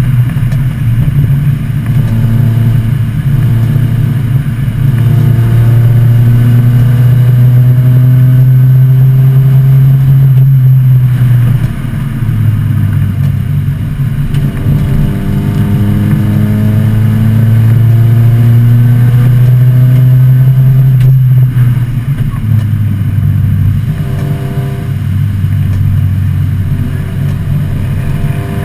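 1986 Volvo 245 wagon's engine under racing load, heard from inside the cabin. Its pitch climbs steadily for several seconds at a time, then drops back sharply three times.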